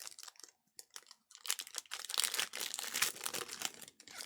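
Trading-card pack wrapper crinkling and tearing as it is opened: a few light crackles at first, then about a second and a half in a dense stretch of crinkling.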